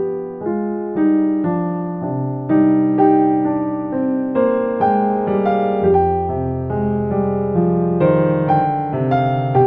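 Instrumental piano music: slow, gentle chords and melody notes struck about every half second, each ringing and fading.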